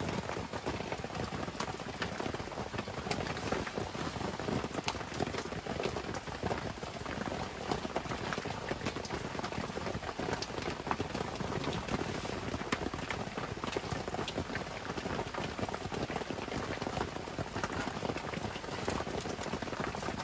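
Heavy rain falling steadily, with many separate drops ticking on a surface close by.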